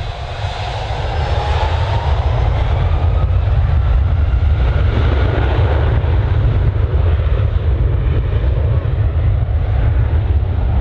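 Jet airliner engines, loud, with a heavy low rumble and a faint whine gliding up in pitch over the first few seconds as the noise builds.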